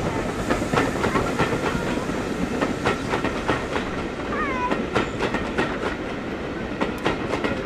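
Train coaches rolling past, their wheels clicking over the rail joints with a steady rumble. About four and a half seconds in there is a short high cry that falls and then rises in pitch.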